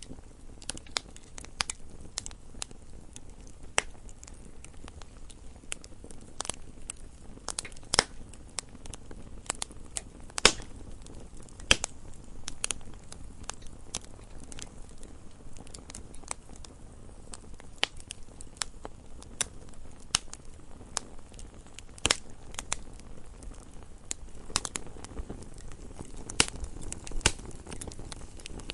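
Campfire crackling: irregular sharp pops and snaps of burning wood over a low, steady burning hiss.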